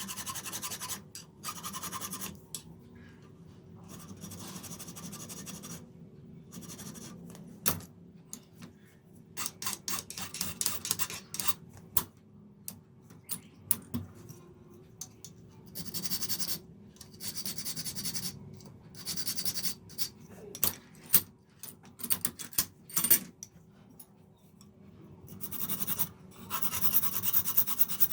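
Hand tools scratching and filing on a knife in repeated strokes lasting a second or two, with quieter pauses and scattered sharp clicks and taps between them.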